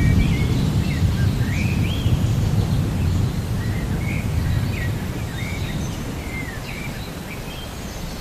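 Low rolling thunder rumbling and slowly fading, with birds chirping in short, repeated calls over it.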